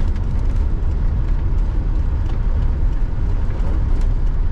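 Steady low drone of a Freightliner FLD120's Caterpillar 3406E diesel engine and road noise, heard inside the truck's cab.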